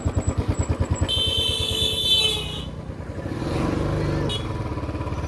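Royal Enfield Classic 350's single-cylinder engine thumping at low speed, with a vehicle horn sounding for about a second and a half soon after the start and a brief toot near the end.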